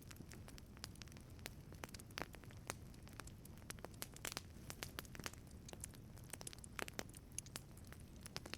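Wood fire burning in a wood-fired pizza oven, crackling with many sharp, irregular pops over a low, steady rumble.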